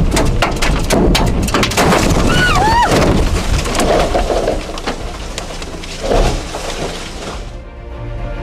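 Repeated crashing and breaking impacts in quick succession, with a person yelling about two and a half seconds in, over background music. The crashes stop near the end and the music carries on alone.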